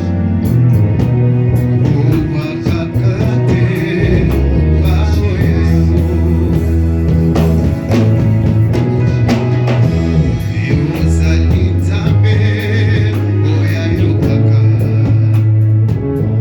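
Church worship music played by a band, with a steady drum beat, held bass notes and guitar, and singing over it.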